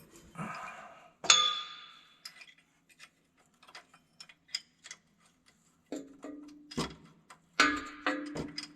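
Ratchet wrench clicking in short runs while a transfer case mounting bolt is snugged up, among sharp metallic clinks of tools and parts; the loudest is a ringing clink about a second in.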